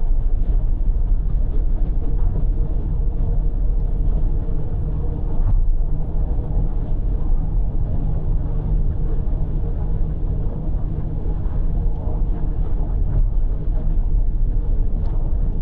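Steady in-cabin car noise at expressway speed: low road and tyre rumble with engine drone, unchanging throughout.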